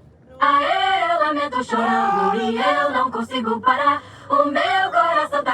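Singing with no instruments heard, starting about half a second in after a brief hush.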